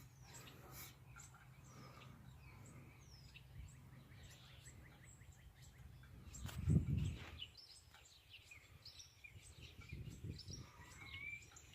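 Small wild birds chirping with short calls, scattered throughout, over a faint low hum. About seven seconds in there is a brief, louder low thump.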